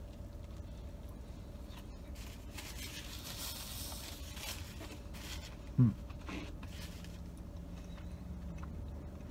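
A person chewing a mouthful of burger, with a paper napkin rustling against the mouth for a couple of seconds a few seconds in, then a short hum from the eater about six seconds in.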